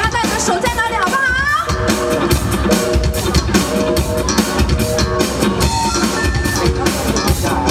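Live band playing an instrumental passage of a pop song: a drum kit keeps a steady beat under bass and held guitar chords, with a wavering lead line in the first second and a half.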